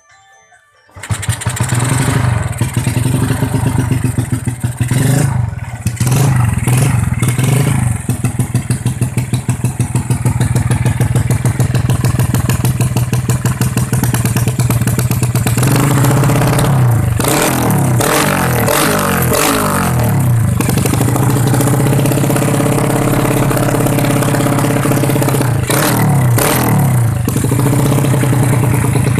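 Motorcycle with a JRM aftermarket exhaust starting about a second in, then running loud at a steady idle, revved up and down several times.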